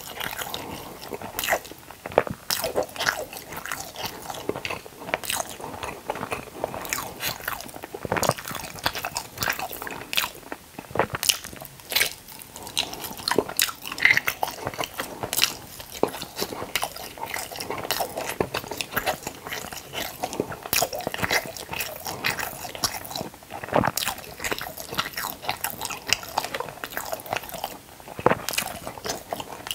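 Close-miked eating: a person biting into and chewing crunchy food, a dense run of irregular crackles and crunches with sharper, louder bites now and then.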